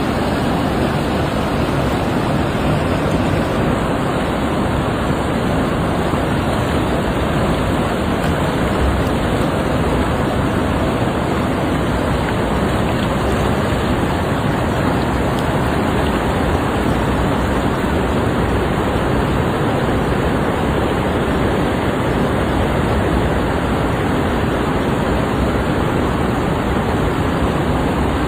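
Floodwater rushing through a wadi, a loud, steady, unbroken roar of water.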